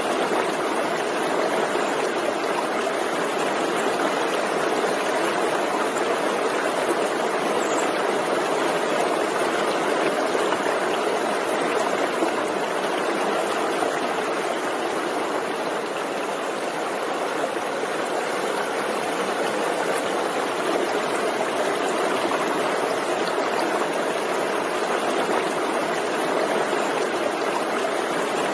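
Forest stream flowing over rocks: a steady, even rush of running water that does not change.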